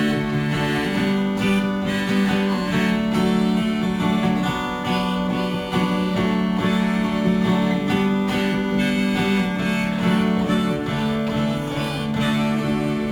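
Acoustic guitar playing an instrumental break in a folk song, with strummed chords.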